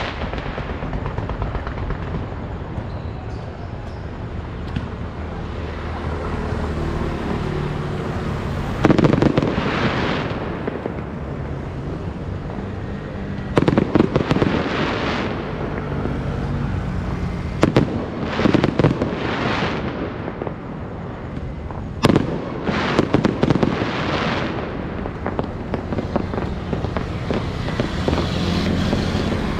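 Special-effect fireworks going off in several loud bursts of dense crackling, each lasting a second or two, with one sharp single bang in the middle of the run, over a steady low rumble.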